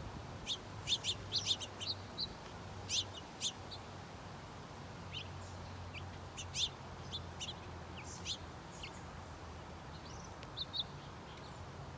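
Birds chirping: short, sharp, high calls scattered throughout, bunched in quick runs during the first few seconds and again about six to seven seconds in. A low steady hum runs underneath.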